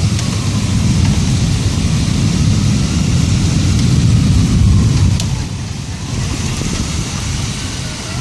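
Thunder rumbling over steady heavy rain, the low rumble easing off about five seconds in.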